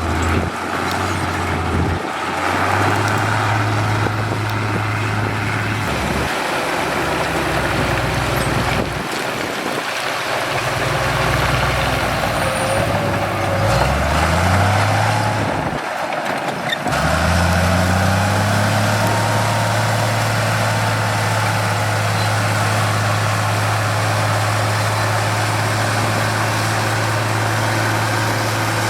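Diesel engines of heavy road-building machinery running, the low engine hum changing abruptly every few seconds, with rising revs about 14 and 17 seconds in.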